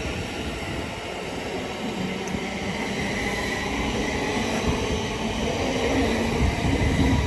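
Thameslink Class 700 electric multiple unit pulling away from the platform: a steady rail rumble with faint steady tones over it, growing louder toward the end.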